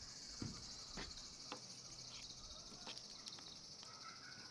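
Insects chirring steadily in a high, finely pulsing band, with a few sharp clicks and knocks scattered through, the loudest about half a second in.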